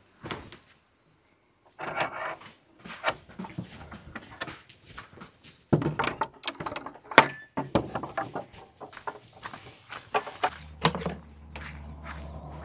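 Irregular clacks and knocks of old sauna stones being picked up and set down, with one sharp knock about seven seconds in. A low steady hum comes in near the end.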